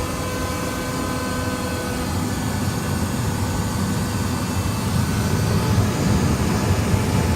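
Steady low rumble heard from inside a moving vehicle's cabin, with faint steady tones that fade out about two to three seconds in.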